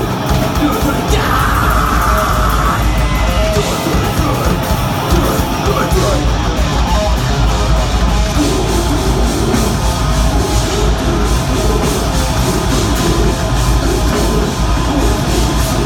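Deathgrind band playing live at full volume: distorted guitars and drums with vocals over them.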